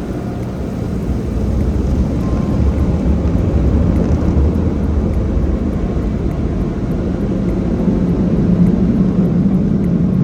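Automatic car wash machinery heard from inside the car: a steady, loud rushing roar with a deep rumble, growing a little louder about two seconds in.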